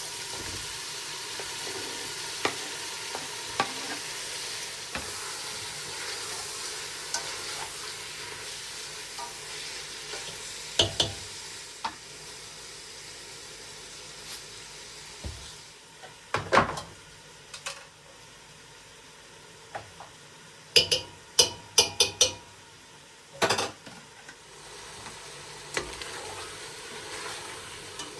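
Food sizzling in a frying pan while being stirred, with a utensil now and then knocking and scraping against the pan. The sizzle is stronger in the first half and quieter later; there is a quick run of clicks and knocks about two thirds of the way through.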